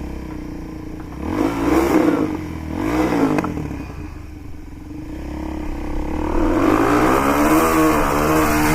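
Motorcycle engine revving while riding: two short rises and falls in pitch in the first few seconds, then a longer build of throttle from about six seconds in.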